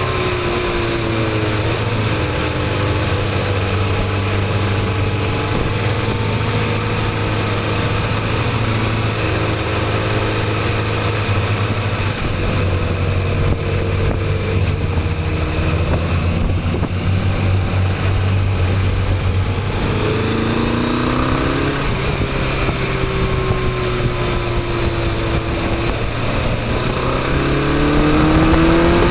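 Motorcycle engine running under way with a steady haze of wind and road noise. The engine pitch dips and climbs several times as the revs change, and near the end the revs and loudness climb as it accelerates.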